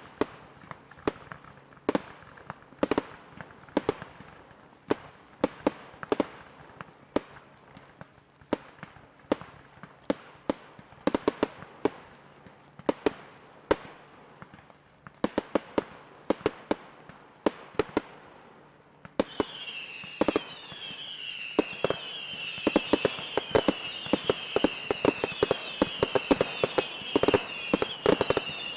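Fireworks display with aerial shells bursting in a string of sharp bangs, about one to two a second at first and coming thicker later. About two-thirds of the way in, a high wavering whistle sets in under the bangs and carries on to the end.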